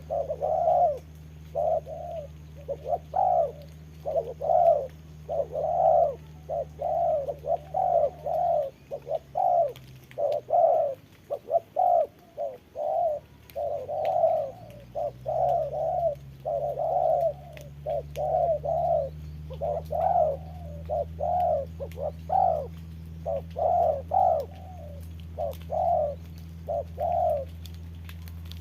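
Spotted doves cooing over and over, about one coo a second. Underneath runs a low steady hum that dies away about nine seconds in and slides back up in pitch around fourteen seconds.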